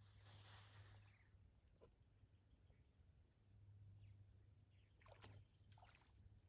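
Near silence: faint outdoor ambience with a low steady hum and a thin high steady tone, and a few faint short chirps just after the middle.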